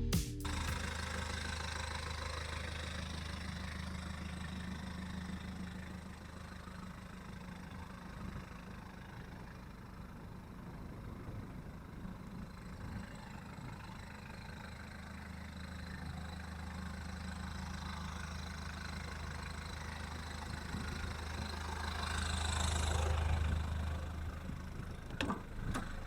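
VW Golf mk1's 1.9 turbo-diesel engine idling steadily, growing louder for a couple of seconds near the end.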